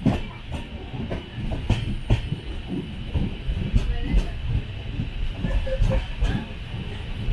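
Passenger express train running along the line, heard from aboard: a steady low rumble and hiss of the moving coach, with sharp wheel clacks over rail joints at irregular intervals.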